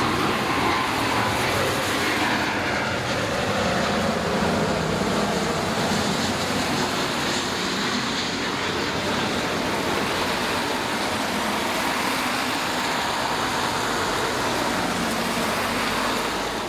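Jet airliner passing, a loud, steady rush of engine noise that cuts off suddenly at the very end.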